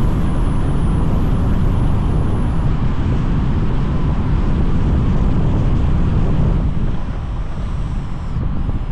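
Car on the move: steady, loud road and wind rumble.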